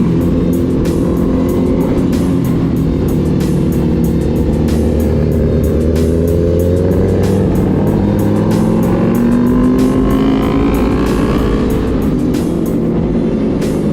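Motorcycle engine running on the road, its pitch rising and falling as it revs, under background music with a steady beat.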